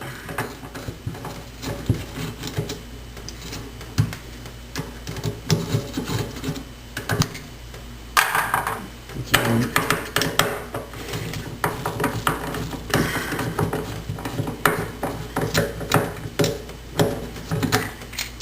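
Screwdriver clicking and scraping on faucet handle screws, with small metal parts clinking and tapping irregularly as the handles are unscrewed and lifted off the faucet.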